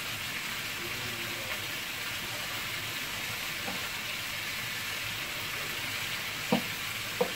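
Chicken pieces sizzling steadily as they fry in a pan. There are two short knocks near the end.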